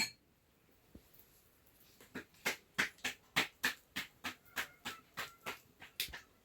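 A steady run of sharp knocks, about three to four a second, starting about two seconds in.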